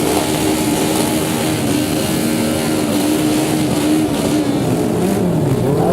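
Motorcycle engines running loudly under a dense wash of noise, one engine holding a steady note before its pitch dips and rises again near the end.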